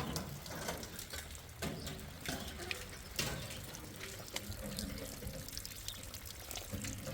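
Water running and splashing, with scattered small clicks and knocks.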